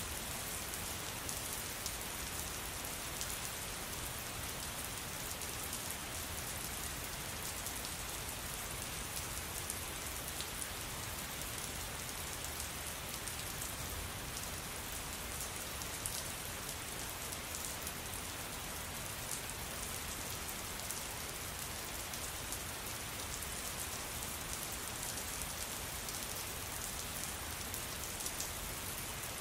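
Steady rain falling, a dense even patter of drops on a surface with fine drop ticks throughout.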